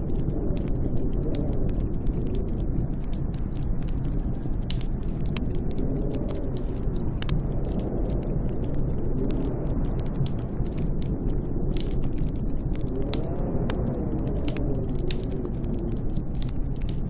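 Snowstorm wind rumbling steadily, with a wavering moan that swells and fades every few seconds and many small sharp crackles scattered throughout.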